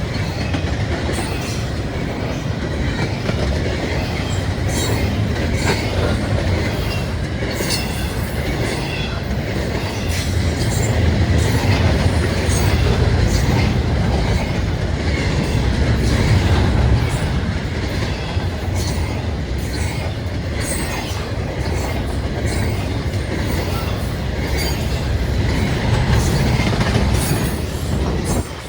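A CSX freight train rolling past close by: a steady heavy rumble of wheels on rail, with irregular sharp clicks and clanks from the wheels and cars.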